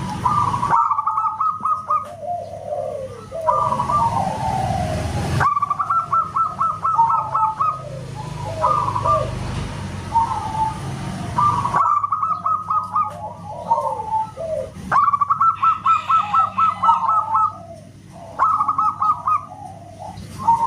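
Zebra doves (perkutut) cooing over and over. Each phrase is a quick run of short high notes, then lower falling coos, and phrases from more than one bird overlap. The background changes abruptly several times, as at splices between recordings, and a low hum runs under parts of it.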